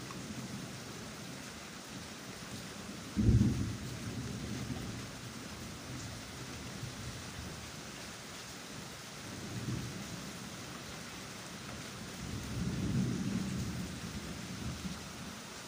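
Steady hiss of rain, with a sharp low thump about three seconds in and two softer low rumbles later on.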